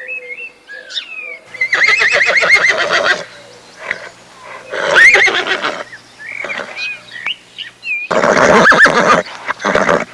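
A horse whinnying three times, each a loud, quavering neigh of a second or more. Short bird chirps sound in the gaps between.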